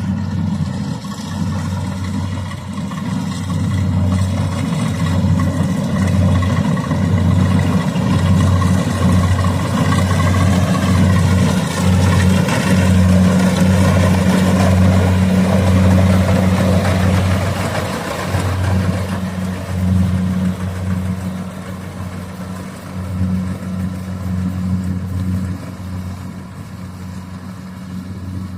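Rice combine harvester's engine running steadily with a low, throbbing drone. It grows louder toward the middle and eases off during the last third.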